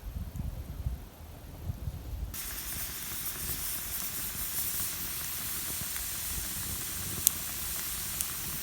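Low rumbling, then about two seconds in a steady hiss starts suddenly, with two sharp crackles near the end: a wood campfire hissing and crackling.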